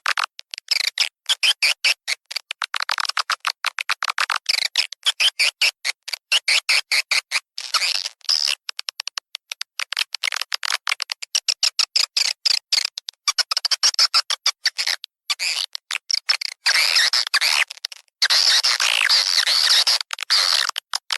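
Swiftlet lure recording: rapid chattering clicks and high twittering chirps of swiftlets, packed into quick bursts broken by short gaps, with denser, fuller stretches about 16 and 18 seconds in. It is a call track of the kind played in swiftlet nesting houses to draw the birds in.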